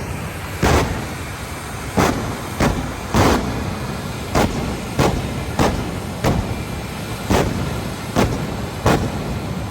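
Hellfire jet truck's jet engine running with a steady low rumble, broken by a string of short, sharp bursts about one to two a second at irregular intervals.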